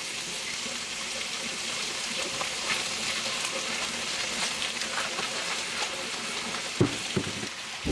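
Food frying in a pan: a steady sizzle with scattered crackles and pops. Two short knocks come shortly before the end.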